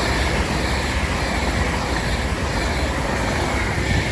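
Class 390 Pendolino electric train passing through the station, a loud, steady rush of wheels on rail and air.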